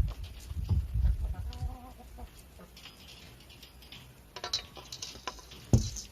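Chickens clucking, with a short pitched call about a second and a half in. Low rumbling near the start, and a sharp thump near the end that is the loudest sound.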